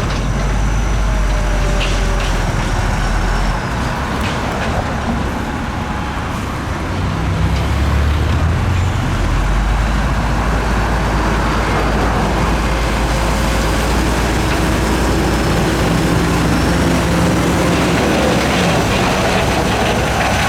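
Heavy diesel engine of earthmoving machinery running with a steady low rumble. It eases off slightly a few seconds in, then picks back up about seven seconds in.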